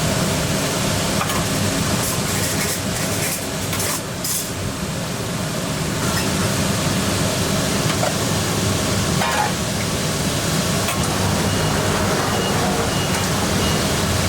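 Steady roar of a busy commercial kitchen, a burner or exhaust fan running, with a few short clinks of utensils about two to four seconds in.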